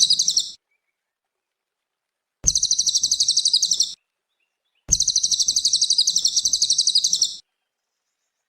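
A cililin songbird giving a rapid, high-pitched trill in three bursts: one fading out just after the start, one of about a second and a half, and a longer one of about two and a half seconds, with silent gaps between them.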